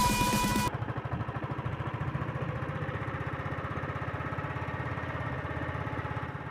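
A vehicle engine running steadily with a rapid, even pulse, fading slightly near the end. Background music cuts off in the first second.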